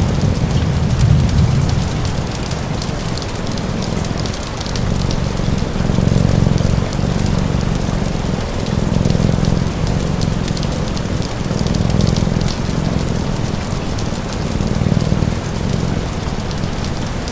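Steady rain with a crackling fire and a cat's low purr, the purr swelling and easing every second or two as the cat breathes in and out.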